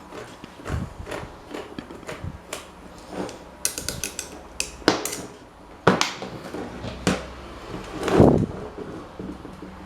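Metal parts and tools being handled on a workbench: a run of irregular clicks and knocks, with a brief metallic ringing about four seconds in and a heavier knock a little after eight seconds.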